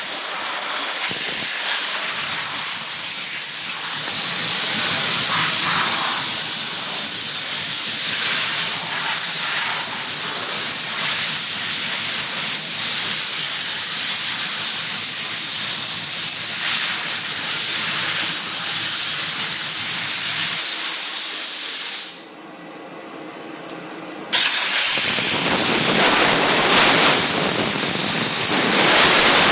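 Steam cleaner wand hissing steadily as pressurised steam sprays out. It cuts off about 22 seconds in for roughly two seconds, then starts again.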